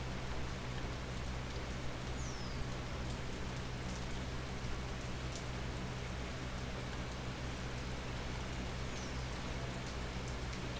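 Steady natural rain falling under an almond tree, with scattered individual drops ticking. A low steady hum runs underneath, and a short high falling chirp comes twice, about two seconds in and near the end.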